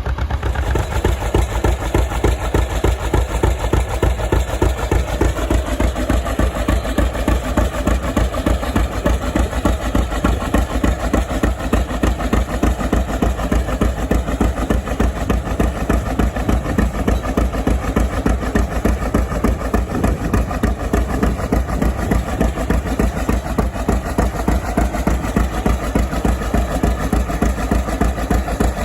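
John Deere two-cylinder tractor engine running steadily, its exhaust giving an even, regular popping beat.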